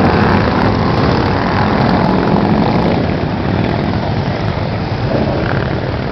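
Motorcycle engines running steadily as a group of bikes rides along, easing slightly after about three seconds.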